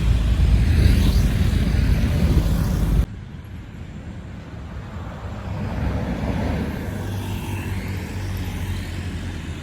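Heavy truck's engine labouring loud and low on a steep uphill climb, cut off abruptly about three seconds in. A quieter engine rumble follows and swells again about six seconds in.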